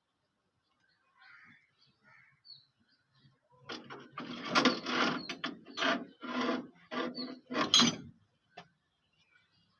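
Hand tool working on a tractor battery fitting: a run of about eight short, rasping, ratchet-like strokes over roughly four seconds, starting about a third of the way in.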